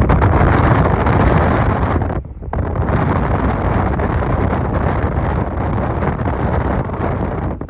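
Strong wind gusting through forest trees and buffeting the microphone, a steady heavy rumble, with a brief lull a little over two seconds in.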